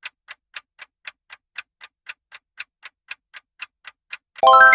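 Countdown-timer clock ticking sound effect, about four ticks a second with alternating louder and softer ticks. Near the end a bright multi-tone chime dings as the time runs out.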